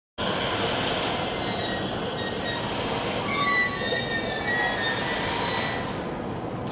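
Electric train running past on the tracks, a steady rumble with thin high wheel squeals sliding in pitch through the middle, loudest about three and a half seconds in. It starts abruptly.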